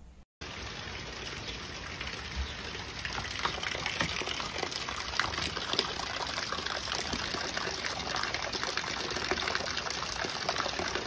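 Steady rain falling, an even hiss full of fine patter.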